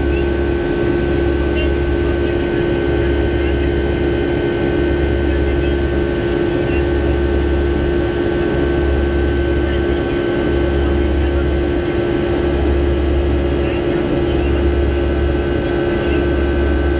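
Steady jet engine and airflow noise heard inside the cabin of a Boeing 757-200 in flight, a constant hum with a low rumble that swells and fades every couple of seconds.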